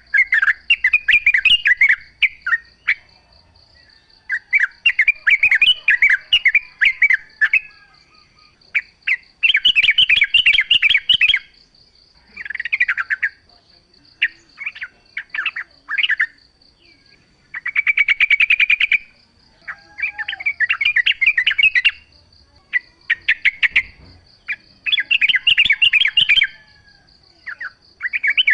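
Yellow-vented bulbul (trucukan) singing: about ten bubbly, chattering phrases of a second or two each, with short pauses between them. A faint steady high whine runs underneath.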